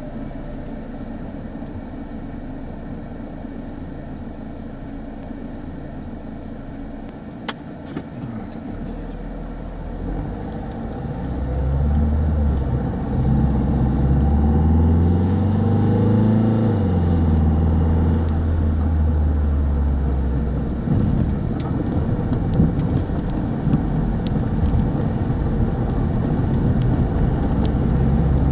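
Steady road noise of a car driving. About a third of the way in, an engine grows louder and rises in pitch, peaks near the middle, then drops back as the car gets past a truck that had blocked the road.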